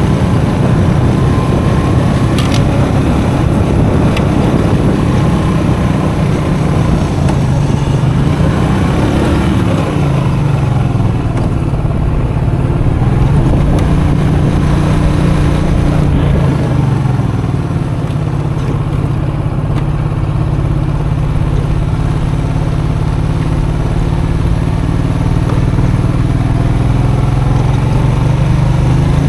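Custom motorcycle engine running under way at low to moderate revs. Its pitch dips and climbs a few times with the throttle, then holds steady.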